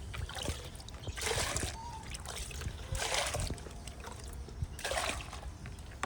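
Medicated drinking water splashing as it is poured into poultry drinkers, in three short spurts about two seconds apart.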